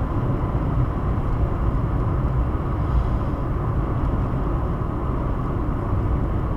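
Steady road noise inside a moving car: engine and tyre rumble at cruising speed.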